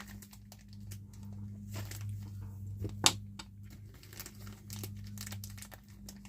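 Small plastic parts bag crinkling and rustling as a model kit's tire is pulled out through a slit cut in it, with scattered light clicks and one sharper tick about three seconds in. A steady low hum runs underneath.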